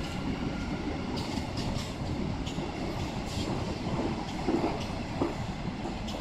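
Queensland Rail electric suburban train passing at close range: a steady rumble of wheels on track, with a series of sharp clicks in the first half.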